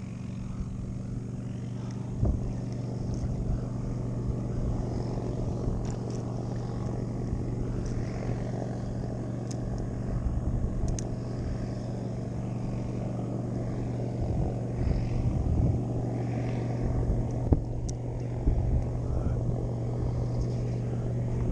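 Small motor running at a steady, even pitch, a low hum that propels the kayak. A few sharp knocks break in, the loudest about two seconds in and two more near the end.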